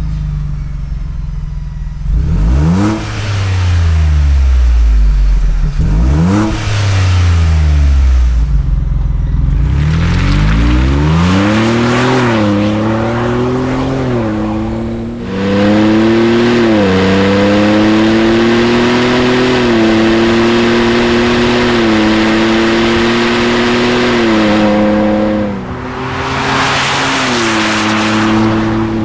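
Ford Bronco 2.7L EcoBoost twin-turbo V6 through a Borla aftermarket exhaust: two quick revs, then accelerating through several upshifts, each pitch climb ending in a drop, before settling into a steady cruise.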